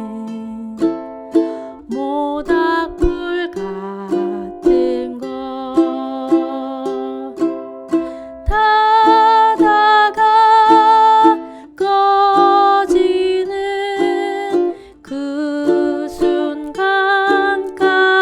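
Ukulele played in a 3/4 waltz strum, one thumb pluck on the 4th string followed by two strums per bar, moving through simple chords. A wavering melody line is carried over the strumming and grows louder about halfway through.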